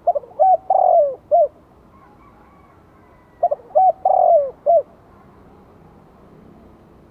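Spotted dove cooing its song, twice: each phrase a few quick short coos, one longer drawn-out coo that falls in pitch, and a final short note.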